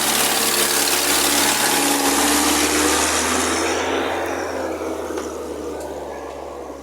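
UAZ 'bukhanka' van's engine running hard under load with a loud rushing noise, gradually fading over the second half.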